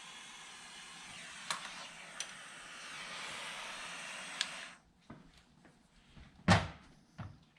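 Power Probe butane soldering tool with its hot-air tip running with a steady hiss while shrinking heat-shrink tubing over crimped wires, with a few light clicks; the hiss cuts off suddenly about five seconds in. A few knocks follow, the loudest one about a second and a half later.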